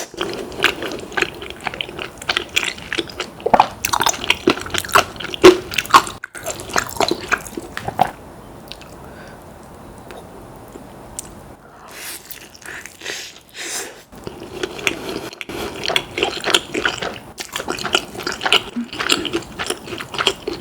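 Close-miked chewing and biting of food: wet, crackly mouth sounds of eating. They pause for a few seconds about eight seconds in, then resume.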